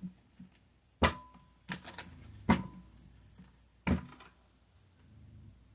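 A handful of sharp taps on a hard surface, spaced about a second apart, the first about a second in and the last near four seconds.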